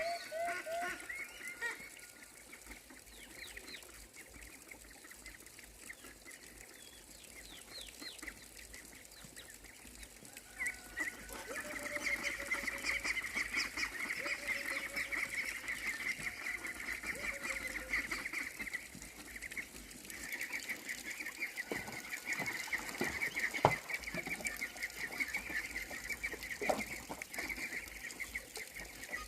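Farmyard poultry calling: scattered clucks and calls, then from about ten seconds in a busy, continuous high-pitched chirping chorus, with a few sharp clicks later on.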